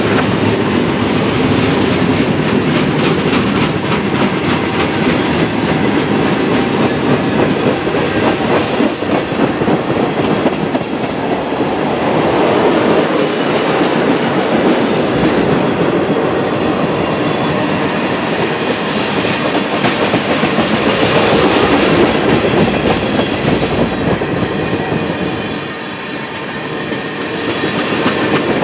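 Freight train cars rolling past close by: a loud steady rumble of wheels on rail, with rapid clicking as the wheels cross rail joints.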